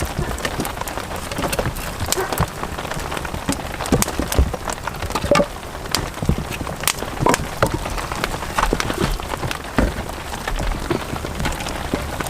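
Heavy rain falling steadily, with many sharp, irregular drop strikes on a nearby surface.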